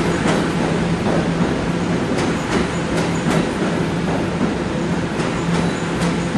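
R211A subway car running on the rails, heard from inside: a steady rolling rumble with a low hum, and irregular sharp clicks from the wheels on the track.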